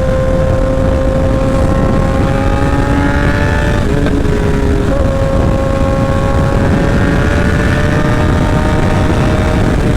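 Sport motorcycle with a short SC Project exhaust running at highway speed, its engine note slowly rising as it pulls. The pitch dips for about a second a little before halfway, then carries on rising. Heavy wind rush on the mic lies under it.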